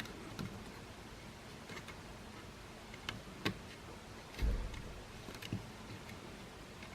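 Scattered light clicks and taps of plastic parts and small tools being handled as a Makita CL108FD cordless stick vacuum is worked on, with a duller bump about four and a half seconds in.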